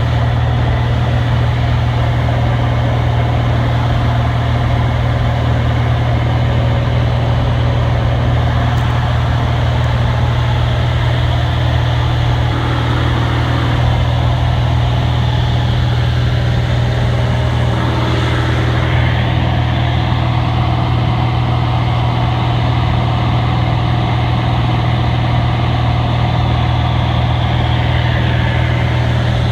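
1958 Cessna 172's Continental O-300 six-cylinder engine and propeller in steady cruise, a loud, even drone.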